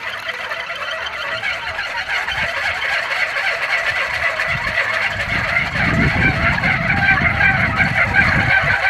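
A one-and-a-half-metre kolecer, a Sundanese wooden wind propeller, whirring in the wind with a fluttering hum that grows louder. From about halfway in, wind gusts buffet the microphone.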